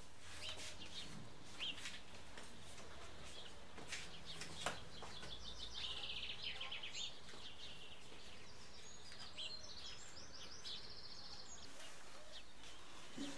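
Small birds chirping, with a rapid trill about halfway through and a run of short chirps later, over a faint steady background hum. A few sharp clicks and knocks come in the first few seconds.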